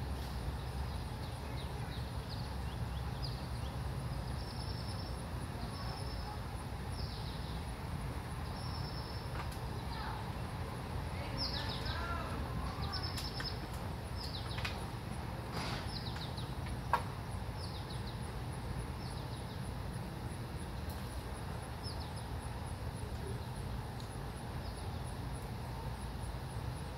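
Birds chirping over and over in short, high, falling chirps above a steady low rumble. A single sharp click sounds about seventeen seconds in.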